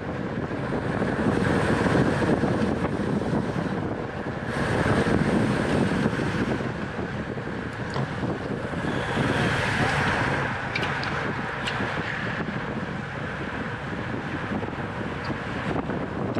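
Wind rushing over the microphone of a bicycle-mounted camera at racing speed: a steady rush that swells and eases several times, with a few faint ticks.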